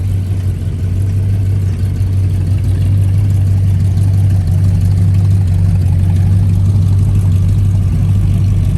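Car engine idling close by with a steady low hum, getting slightly louder about two seconds in.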